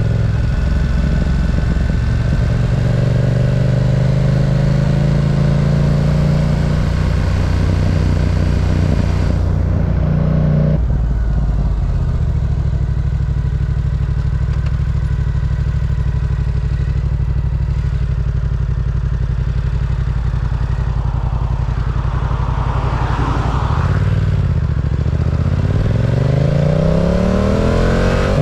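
Yamaha R7's parallel-twin engine running under way on the road. Its pitch climbs over the first few seconds, drops sharply about eleven seconds in, holds steady, then dips and climbs again near the end.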